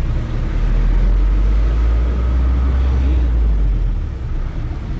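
Truck engine running as the truck is driven slowly, a steady low rumble that eases a little about four seconds in.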